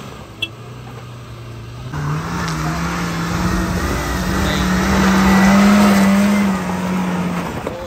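Maruti Suzuki Gypsy's four-cylinder petrol engine revving as it drives through a shallow river, with water splashing and rushing around the wheels. The engine note rises about two seconds in, is loudest in the middle while it pushes through the water, and eases off near the end.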